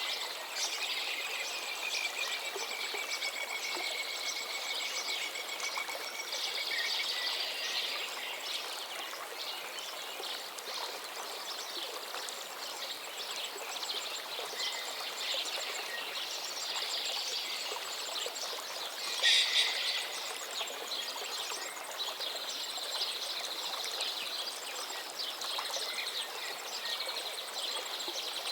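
Running stream water with several birds singing and calling over it; one bird call stands out louder about two-thirds of the way through.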